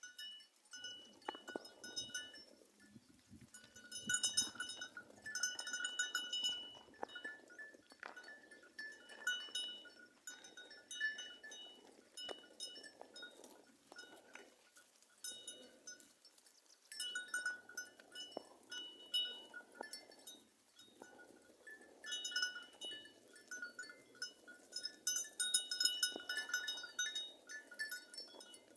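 A herd of goats moving about, with the bells on their necks clinking and clanking irregularly.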